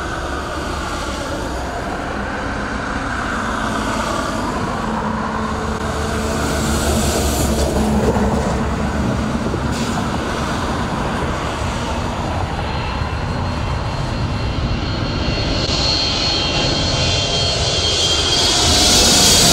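Boeing 777-300 twin turbofan jet engines during a low pass: a steady loud rush with gliding tones that builds slowly, a high fan whine coming in about two-thirds of the way through, and the loudest moment at the very end as the airliner closes in.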